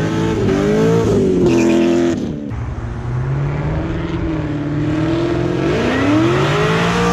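A muscle car engine revving hard as the car pulls away: the revs climb in the first second, drop off sharply about two and a half seconds in, run steady, then climb again near the end.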